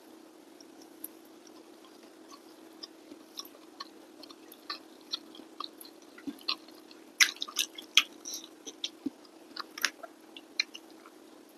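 Close-miked chewing of rice and steamed fish, a string of short wet mouth clicks and smacks that grows busier and louder from about four seconds in, over a faint steady hum.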